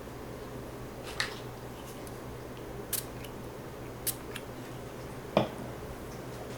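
Four short, sharp clicks and taps of small hard objects being handled, the last the loudest, over a steady low hum.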